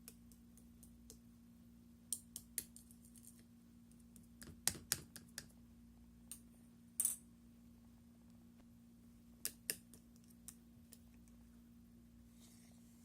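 Slime being handled, giving scattered sharp clicks and pops in small clusters over a steady low hum.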